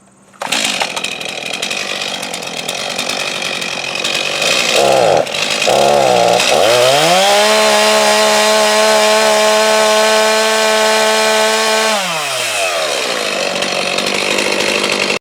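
Chainsaw engine starting about half a second in and idling, blipped a couple of times, then revved up and held at a steady high pitch for about five seconds before dropping back to idle near the end.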